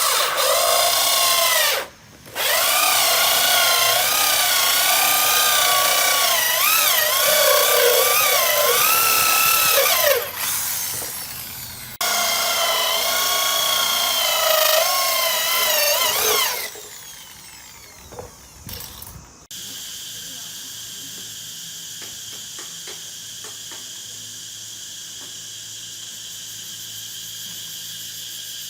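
A power drill running in two long spells, its whine dipping and wavering in pitch as it works under load, with a brief stop early on. After about two-thirds of the way in, a quieter steady high-pitched drone remains.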